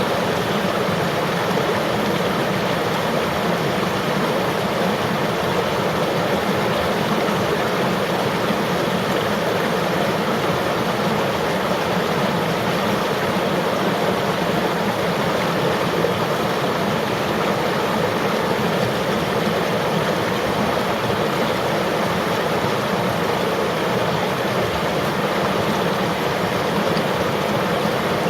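River water flowing, a steady, unbroken rushing with no pauses or changes.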